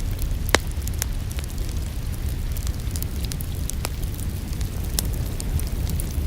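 Wood fire in an open fireplace crackling: many sharp pops and snaps over a steady low rumble, with one louder snap about half a second in.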